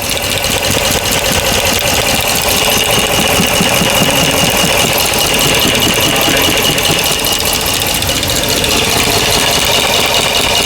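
5.7 Hemi V8 of a 2009 Dodge Ram 1500 idling steadily with its left valve cover off, the exposed valve train ticking rapidly. The tick is loudest at the number one rocker arm, which the mechanic takes for a faulty number one intake lifter.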